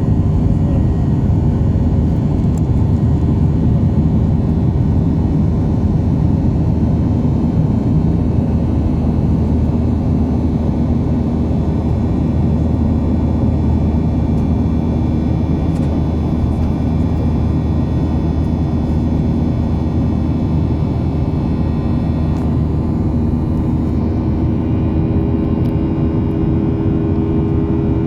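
Boeing 737 jet engines running with a loud, steady rumble and a constant low hum, heard from inside the cabin.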